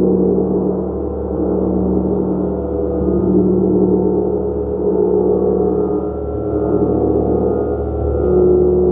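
Gong played continuously, a dense wash of many overlapping sustained tones that swells and eases every few seconds.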